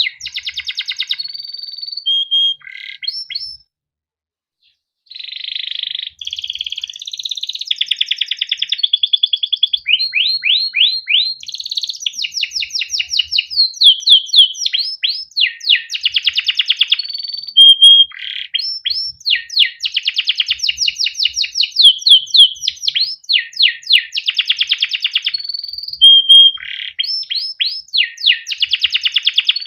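Male domestic canary singing a long, continuous song of rapid trills and repeated chirping phrases, with a brief pause of about a second early on.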